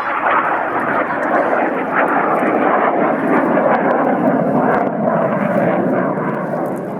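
Airplane flying past, its engine noise loud and steady, easing off near the end.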